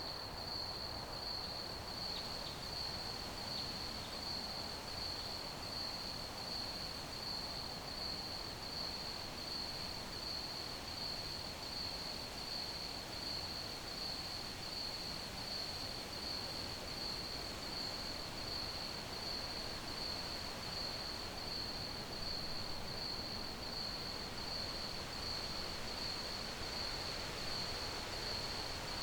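Crickets chirping in a steady, even high-pitched trill over a constant background hiss.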